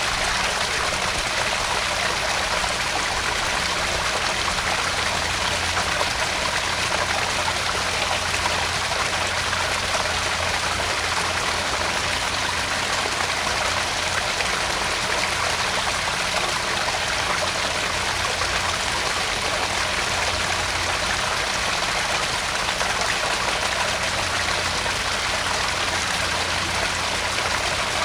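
Small garden pond waterfall: water splashing and trickling steadily into the pond.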